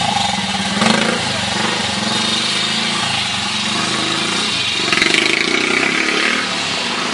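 Trials motorcycle engine running, its pitch rising and falling with the throttle, with louder surges about a second in and again about five seconds in.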